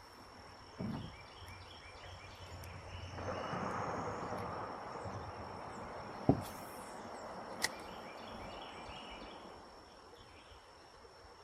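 Insects trilling steadily at one high pitch. A few sharp knocks and clicks cut through it, the loudest about six seconds in, with another about a second and a half later.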